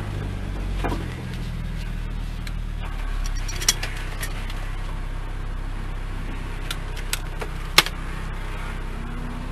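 Car engine running steadily at low revs, heard from inside the cabin as the car rolls slowly. A few sharp clicks or rattles sound in the cabin, the loudest near the end.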